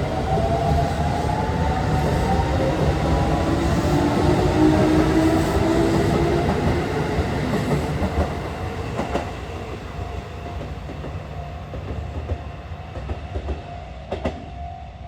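A Keisei 8800-series electric train's original, unrenewed VVVF traction inverter whining in several rising tones as it accelerates away from the platform, with wheel rumble and clacks. The sound fades as the train pulls out, and a steady high tone sounds in the last few seconds.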